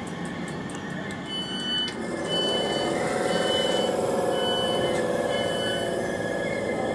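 Train door warning beeps: five high, evenly spaced beeps about one a second, sounding as a train at the platform gets ready to leave. Beneath them, from about two seconds in, a train's low electric hum fades in.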